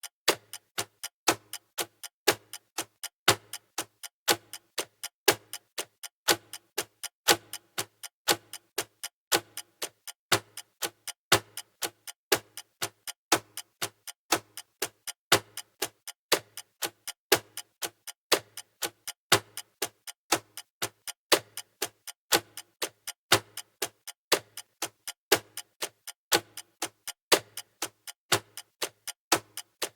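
Clock ticking sound effect of a countdown timer: even, steady ticking, a stronger tick about once a second with fainter ticks between.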